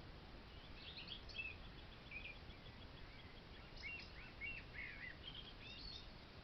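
Faint bird calls: a scatter of short chirps and quick falling notes from small birds over a steady background hiss.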